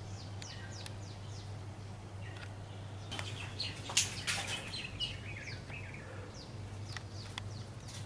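Small birds chirping: runs of short, quick, downward-sweeping chirps, several a second, with a few sharp clicks, the loudest about four seconds in, over a steady low hum.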